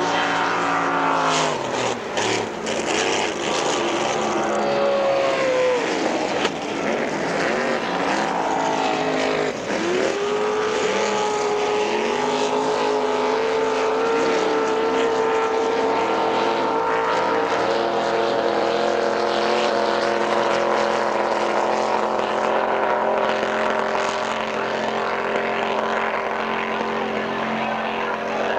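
Racing powerboat engines running hard, several at once. The pitch drops in the first couple of seconds, climbs and falls again, then sweeps up just before ten seconds and holds steady at high revs.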